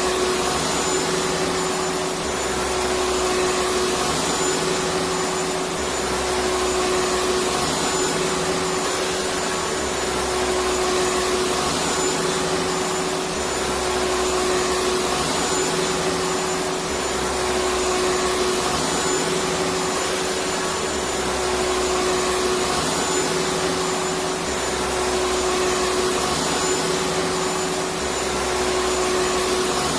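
Electric vacuum cleaner running steadily: a continuous motor hum and airflow hiss with a slight swell and dip about every four seconds.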